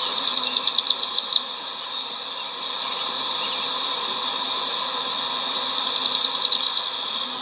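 Honeybee swarm buzzing steadily around a hive box under a high outdoor insect drone. A high, rapid trill of about ten pulses a second sounds twice, once at the start and once near the end, each about a second long.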